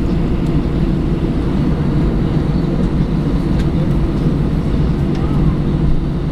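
Airbus A318 jet engines and airflow heard from inside the passenger cabin: a steady, loud low rumble.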